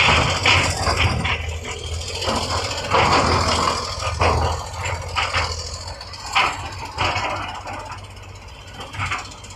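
Heavy construction machine's diesel engine running steadily, with repeated irregular bursts of scraping and rattling from the machine's work.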